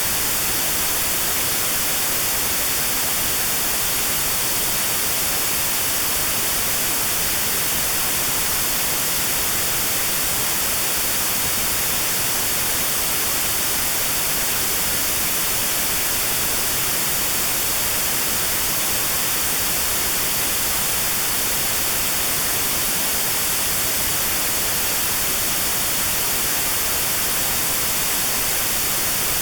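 Steady white noise with a narrow notch cut out around 4 kHz, the notched sound used as tinnitus therapy for 4 kHz ringing.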